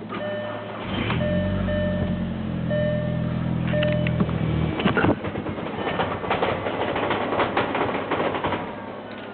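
Cold Volkswagen 1.8T AWP turbo four-cylinder being cranked over with an even hum for a few seconds, then catching about five seconds in and running very roughly, stumbling and shaking. The hard cold start and rough idle are the sign of a running-too-rich fault that a failing MAF sensor was causing.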